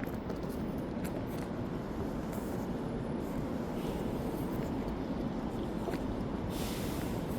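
Steady hum of city street traffic, with a brief hiss about six and a half seconds in.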